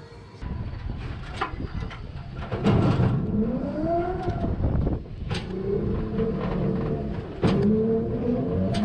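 Vehicle engine accelerating: its pitch rises for a couple of seconds, settles, then rises again near the end, with a few sharp clicks along the way.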